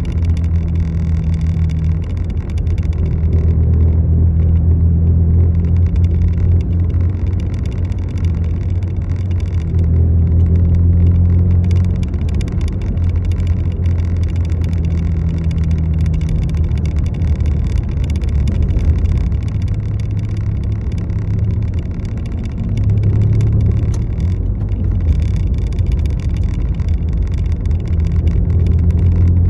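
A road vehicle's engine running with a low, steady drone that swells and eases every few seconds.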